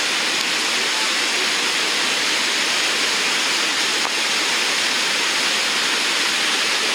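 Whitewater rapids of the Nantahala River rushing, a loud, steady, even wash of noise.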